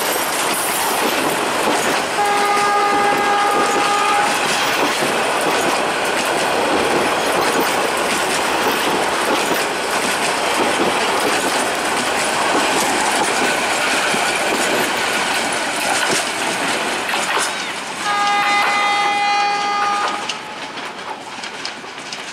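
Passenger coaches rolling past at close range, their wheels rumbling and clattering steadily over the rail joints. A train horn sounds twice, about two seconds each, a couple of seconds in and again near the end, after which the train noise drops away.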